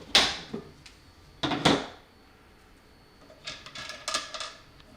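Tools and parts being handled and set down on a workbench: two sharp knocks in the first two seconds, then a short run of light clattering rattles near the end.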